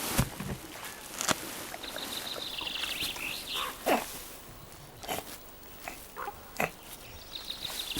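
Brown bears at a moose carcass: scattered short knocks and brief animal noises, with a small bird singing a high, falling trill about two seconds in and again near the end.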